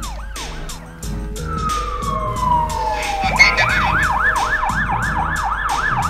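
Emergency-vehicle siren sound effect: a long falling tone about a second and a half in, then a fast rising-and-falling wail, about three cycles a second. Background music with a steady beat runs underneath.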